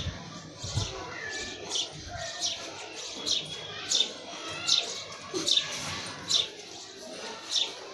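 A bird calling over and over: short, high chirps that sweep downward in pitch, roughly one every three-quarters of a second. A few dull low thuds come in the first two seconds.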